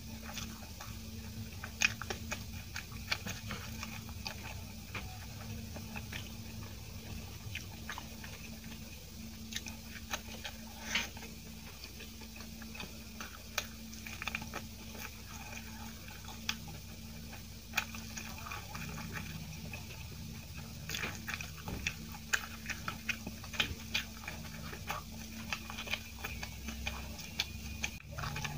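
Close-up eating sounds: soft steamed idli with tomato chutney being chewed, with many short wet mouth clicks and smacks scattered throughout. A low steady hum runs underneath.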